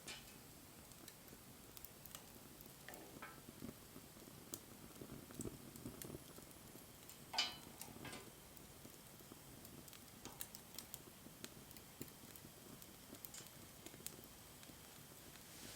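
Wood fire crackling quietly: sparse small snaps and ticks at irregular intervals over a faint hiss, with one louder pop about seven seconds in.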